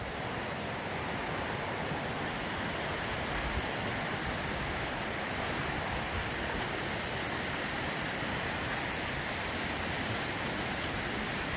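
Steady, even rush of falling or running water, unbroken throughout.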